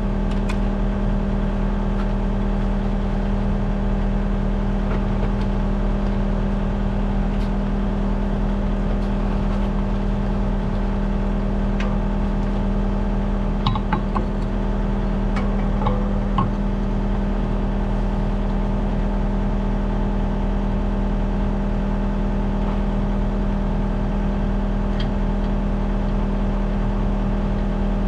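An engine running steadily at an even speed, with a few light clanks and knocks about halfway through.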